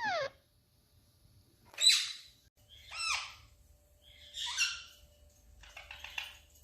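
Pet parrot giving four short calls about a second or more apart, most of them falling in pitch.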